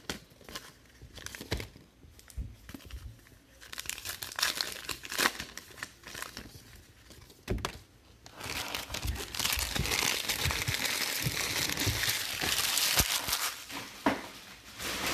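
Plastic wrapping on trading card packs and boxes crinkling and tearing as they are opened by hand: scattered crinkles at first, then a long, louder stretch of continuous crinkling and ripping over the second half.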